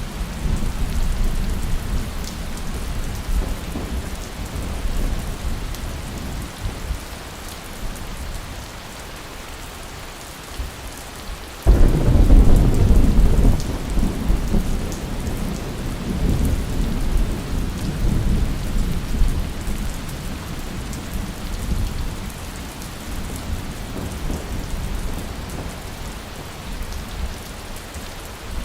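Steady heavy rain with rolling thunder: a low rumble dies away over the first ten seconds, then a sudden loud thunderclap about twelve seconds in rumbles on and fades.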